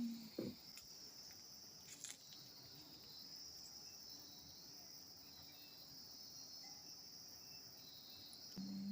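Faint, continuous high-pitched insect chorus, a steady trilling drone. There is a sharp click about two seconds in and a short low hum near the end.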